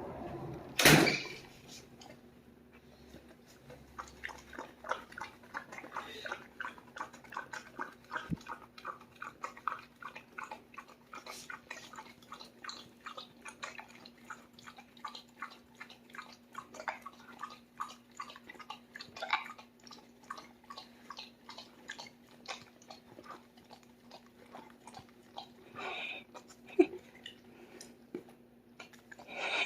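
Dog licking and lapping whipped cream from a pup cup: a long run of quick, wet smacking clicks, several a second, after a single louder knock about a second in.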